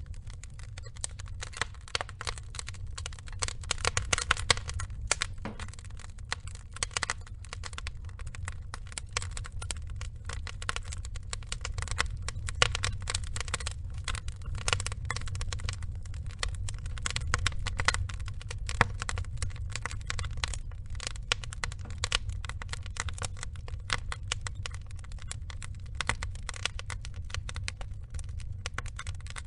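Wood logs burning in a fire, crackling steadily with dense small snaps and occasional louder pops over a low rumble of the flames.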